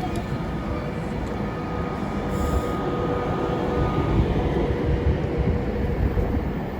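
Train running, a steady rumble with a faint whine above it.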